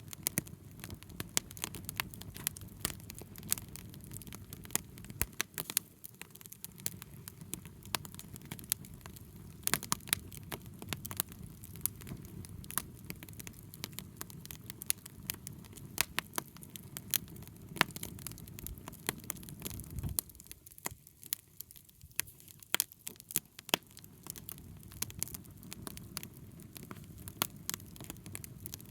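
Wood bonfire crackling: sharp pops and snaps come at irregular intervals over a low, steady rumble, which dips for a couple of seconds about two-thirds of the way through.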